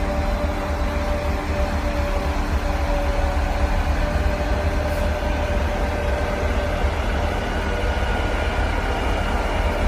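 Railway rotary snowplow at work: a steady, deep rumble with a thin, steady whine above it.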